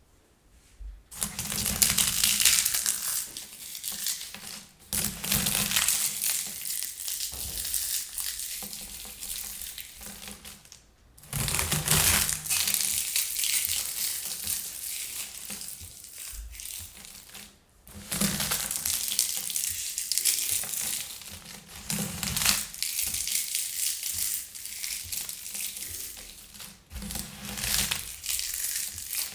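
Air-popped popcorn crushed by hand close up: dense crackling and crunching that starts about a second in and goes on in long spells, easing off briefly twice.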